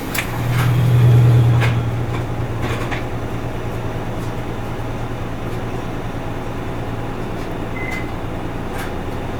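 Isuzu Erga Mio's four-cylinder diesel engine heard from inside the bus cabin, a low steady drone that swells about a second in and then settles. A few sharp clicks or rattles come in the first few seconds and again near the end, with a short high beep just before it.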